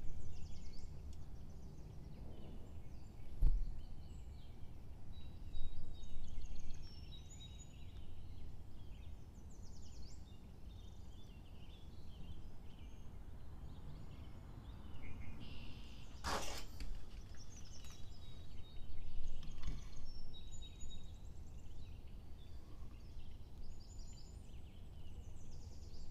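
Background ambience: a low steady rumble with scattered high chirps of small birds, and one louder burst about two-thirds of the way through.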